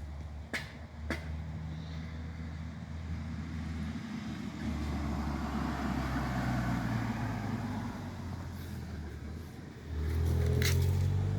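An engine running steadily with a low hum, two sharp clicks in the first second or so, and a louder stretch near the end.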